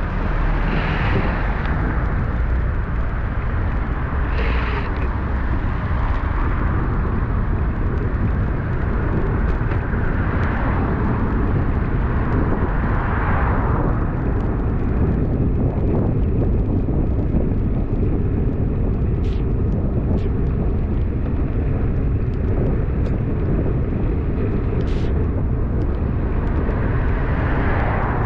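Steady rush of wind and wet-road noise on the microphone of a bicycle-mounted camera during a downhill ride in heavy rain, swelling several times in the first half, with a few sharp ticks later on.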